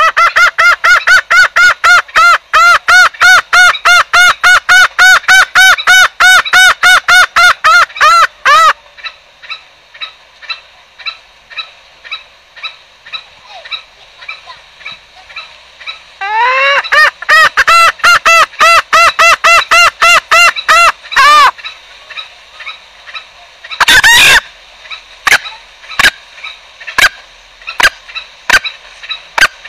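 Green junglefowl lure calls: a fast string of short, arching notes, about five a second, that runs for some eight seconds, pauses, then runs again for about five seconds. Near the end comes one harsh burst, then sharp clicks about once a second.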